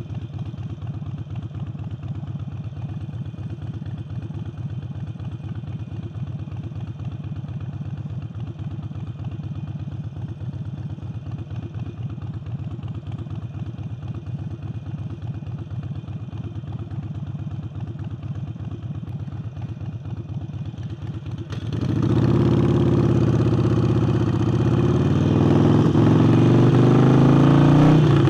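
Harley-Davidson Sportster Forty-Eight's air-cooled V-twin, fitted with a new aftermarket air intake, idling with an even pulsing beat for about twenty seconds. It then revs and pulls away, much louder, its pitch climbing near the end as it accelerates.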